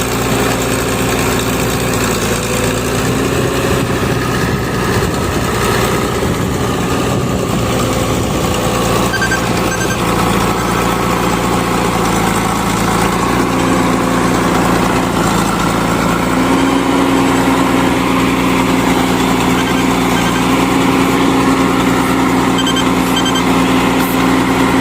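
Heavy diesel machinery engine running steadily, its note stepping up slightly about halfway through.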